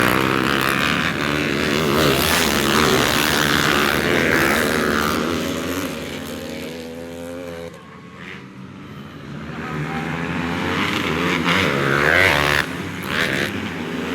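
155 cc trail motorcycles racing on a grass track, their engines revving up and down. The sound fades about eight seconds in, then swells again as more bikes come past near the end.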